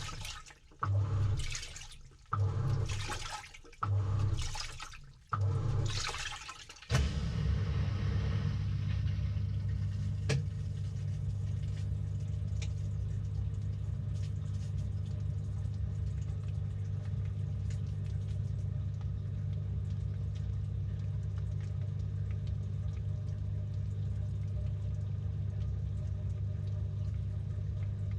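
Samsung top-load washing machine's drum, heard from inside: water surges and swishes in four strokes about a second and a half apart, each with a low motor hum, as the agitator turns back and forth. About 7 seconds in, the strokes stop and a steady low motor hum with water noise takes over and keeps going.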